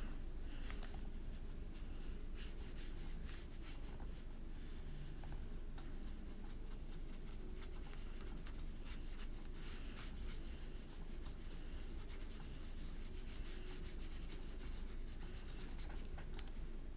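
Watercolour paintbrush stroking over paper: a faint, irregular run of soft brushing and rubbing strokes.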